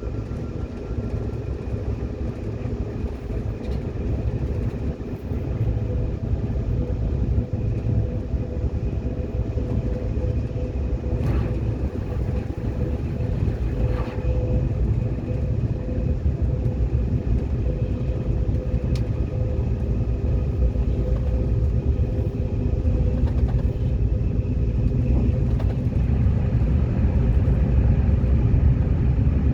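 Train running steadily: a continuous low rumble with a steady hum, growing slightly louder near the end, with a couple of faint clicks in the middle.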